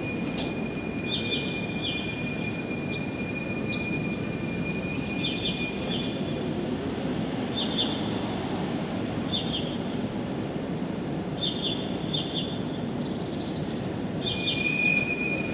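Songbirds singing short repeated phrases of quick high notes, one roughly every two seconds, over a steady low rumble of background noise. A thin high held tone sounds through the first half and again near the end.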